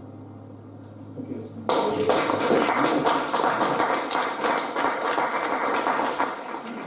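The song's last note dies away, then an audience breaks into applause a little under two seconds in.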